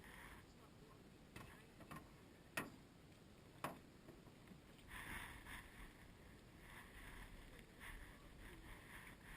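Canoe paddle knocking against the canoe's hull, two sharp knocks about a second apart, a little over two seconds in, with a few fainter taps around them in near quiet.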